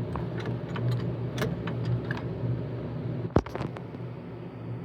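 Wilwood brake pedal being pumped by hand against its master cylinder, giving a run of light clicks and one sharper knock about three and a half seconds in, over a steady low hum. The pumping is the kind the builder fears will ruin the master cylinder's seals.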